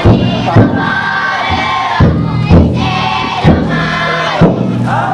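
Futon daiko festival float's large taiko drum struck in loud single and paired strokes, under a crowd of bearers chanting together in long held notes.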